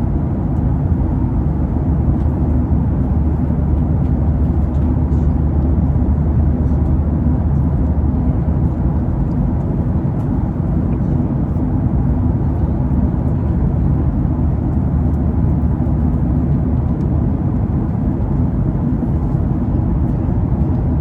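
Airliner cabin noise in flight: a steady, loud, low roar of the engines and the air rushing past the fuselage, unchanging throughout.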